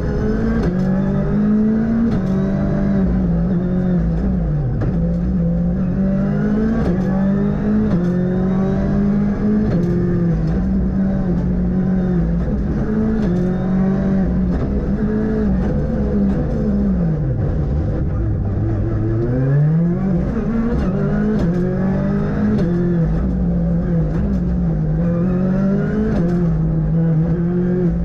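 Ford Fiesta R5 rally car's turbocharged engine heard onboard at full stage pace, its pitch repeatedly climbing under acceleration and dropping on gear changes and braking. About two-thirds of the way through, the revs fall away deeply, as for a tight corner, then climb back up.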